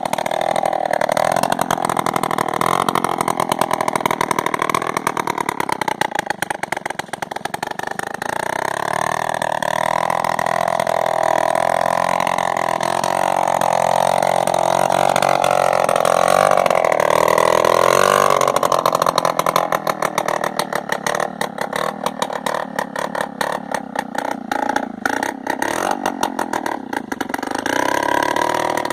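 80cc motorcycle engine running on a farm machine, its speed shifting up and down; a little after halfway it drops back and runs slower and unevenly.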